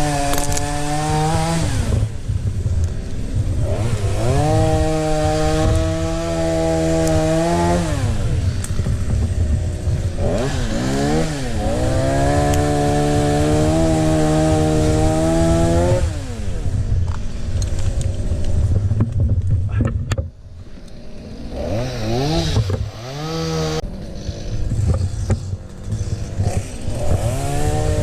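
Two-stroke chainsaw revved up and held at full throttle for several seconds at a time, falling back toward idle in between, three or four times over; quieter, with short blips of throttle, for a few seconds toward the end.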